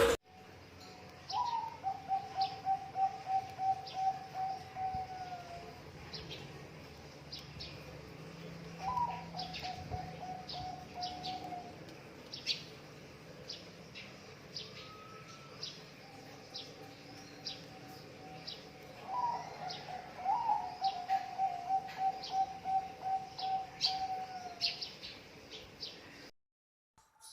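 Zebra dove (perkutut) cooing: three long phrases of rapid staccato coo notes, each sliding slightly down in pitch at the end, with short high chirps from other small birds scattered throughout. The sound cuts off abruptly near the end.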